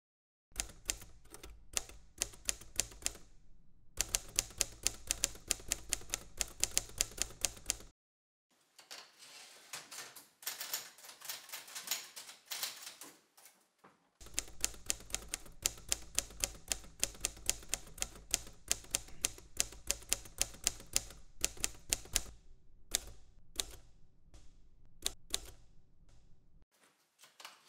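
Manual typewriter being typed on: fast runs of key strikes, several a second, broken by short pauses, then thinning to a few scattered strikes near the end.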